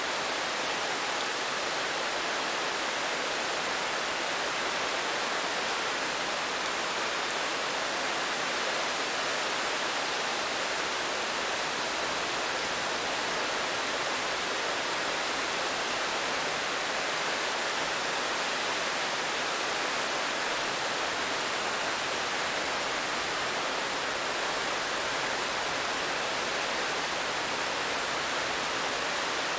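Steady rain falling, heard as an even, unchanging hiss with no single drops standing out.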